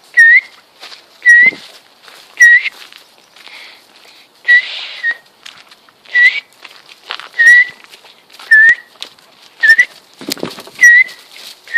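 A loud short whistled note, hooking upward at its end, repeated about once a second.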